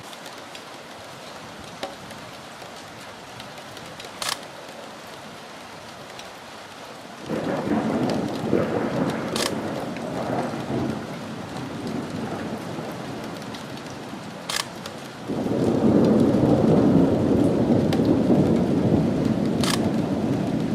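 Steady rain, then thunder from a close lightning strike: a sudden low rumble breaks in about seven seconds in and fades, and a second, louder peal starts about fifteen seconds in and rumbles on to the end. Faint sharp ticks recur about every five seconds over the rain.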